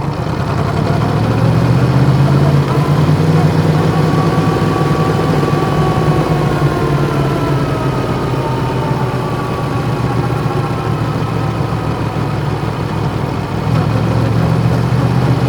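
Yamaha MT-10's crossplane inline-four with an Akrapovic exhaust running steadily at low revs, near idle.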